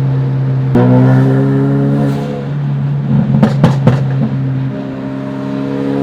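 Tuned Ford Focus RS's turbocharged four-cylinder engine under way. About a second in it pulls, its note climbing slowly. Then comes a quick run of sharp exhaust pops and cracks before it settles to a steady drone.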